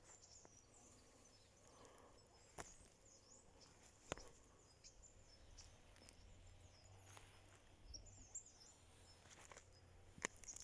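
Faint outdoor ambience of small birds calling: many short, high chirps and twitters. A few sharp clicks or snaps stand out, at about two and a half seconds, four seconds, and near the end.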